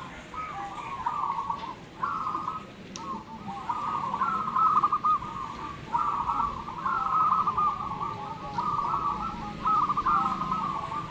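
Many zebra doves (perkutut) cooing together, their rolling, bubbling coo phrases overlapping one another in a steady chorus.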